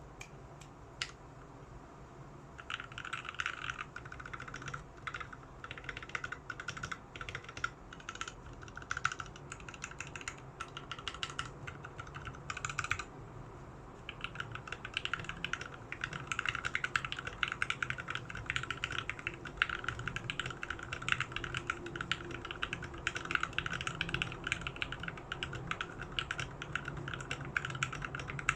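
Mechanical keyboard in a 65% layout with broken-in Tealios V2 linear switches being typed on. A few single key presses come first, then a steady run of keystrokes, a short break about halfway, and faster, denser typing after it.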